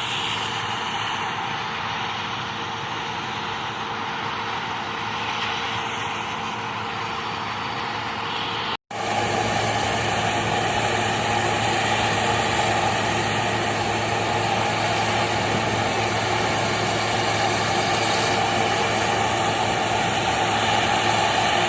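Combine harvester running and mowing: a steady engine-and-machinery drone with a low hum. It breaks off for an instant about nine seconds in and comes back louder.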